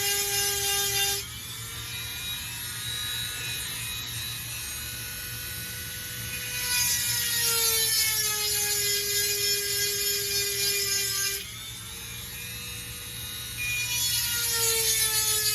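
Dremel rotary tool with a 7/32-inch grinding stone sharpening chainsaw chain cutters: a steady high whine whose pitch sags, with a louder grinding hiss, each time the stone is pressed into a cutter. This happens about three times, and the pitch rises again and the sound is quieter in between.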